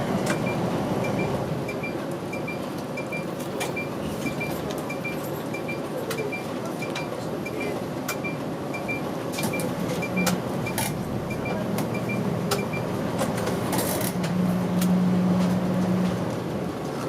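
Route bus interior: steady engine and road noise, with the turn-signal indicator ticking evenly a bit under twice a second. The ticking stops about two-thirds of the way through, and the engine gets louder near the end.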